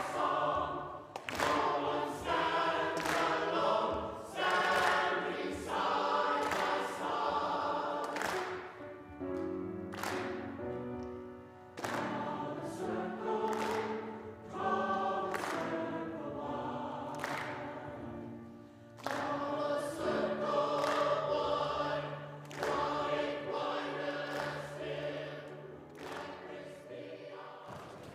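A choir singing in phrases, with sustained chords; the sound fades away near the end.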